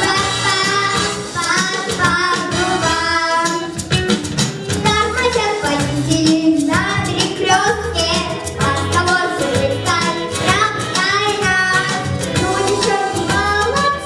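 A child sings a solo song over an instrumental backing track with a steady bass beat.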